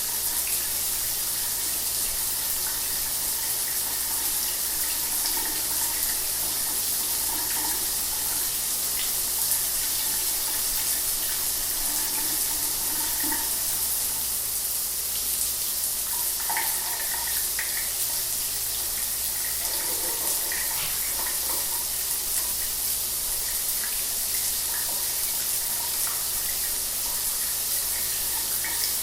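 Shower water running steadily, a continuous hiss of spray with small splashes scattered through it.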